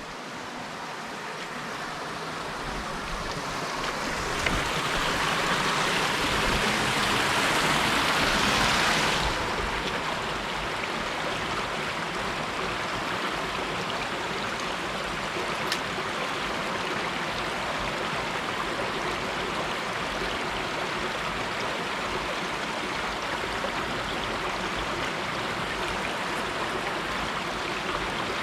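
Mountain stream water rushing steadily over rocks. It swells louder for several seconds about four seconds in, then settles back to a steady rush.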